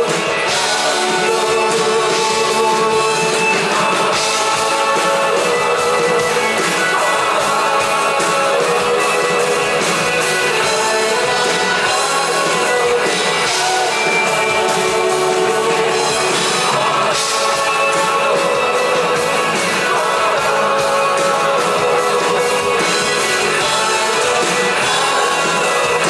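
Rock band playing live, steady and loud throughout.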